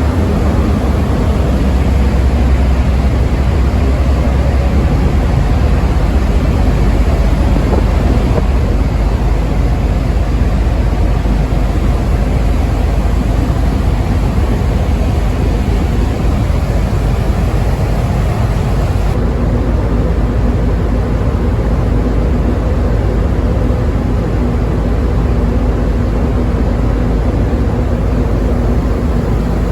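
Steady, loud drone of a car ferry under way: a low engine rumble under a rushing noise. About two-thirds of the way through, the hiss becomes a little duller and a low hum stands out more.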